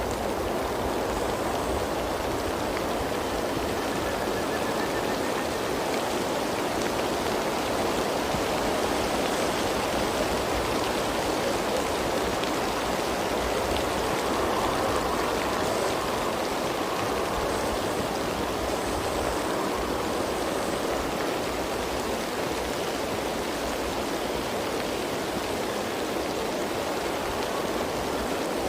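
Medium rain falling steadily, a dense even patter.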